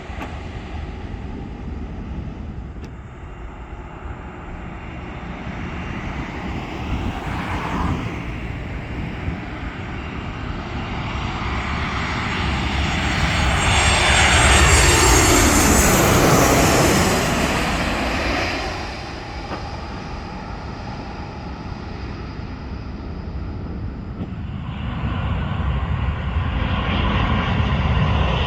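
Boeing 737 jet airliner's turbofan engines as it flies past, the sound swelling to a peak about halfway through, sweeping down in pitch as it goes by, then fading; another aircraft's sound begins to rise near the end.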